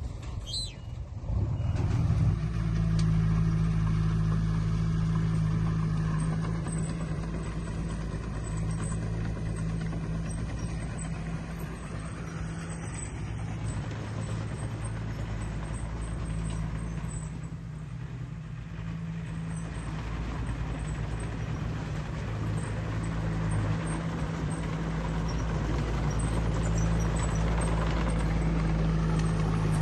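Heavy diesel engine of earthmoving machinery running under load, with a steady low drone. It picks up sharply about two seconds in, eases off around the middle and builds again near the end.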